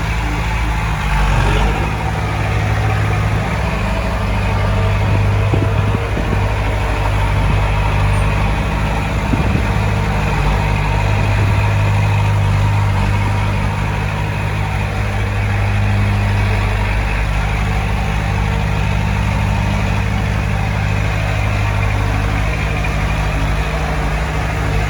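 Diesel engine of heavy earthmoving equipment running steadily, with a deep, even drone that swells a little through the middle stretch.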